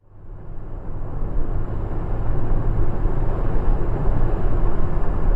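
Low road and engine rumble of a moving car, picked up by a dash camera inside the cabin, swelling over the first couple of seconds and then holding steady.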